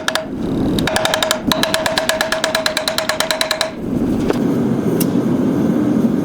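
Rapid machine-driven hammering on metal, about a dozen blows a second over a steady ringing tone, with a short pause about a second in. After about three and a half seconds the hammering stops and a rougher, noisier working sound takes over.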